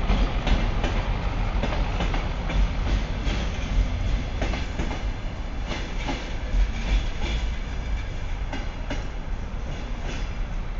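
Train rolling through a station, heard from on board: a steady low rumble with irregular clacks as the wheels cross rail joints and points.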